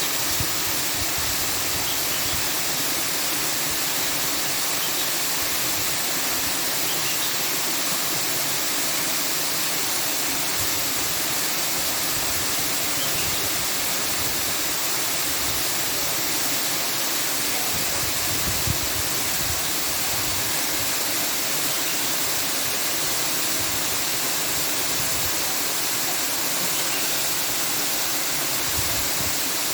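Steady rushing noise, unchanging in level.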